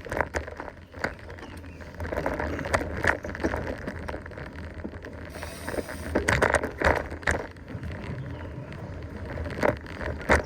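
Mountain bike riding along a dirt trail: tyre and drivetrain rattle with irregular knocks and clatter as it bumps over the ground, over a steady low rumble.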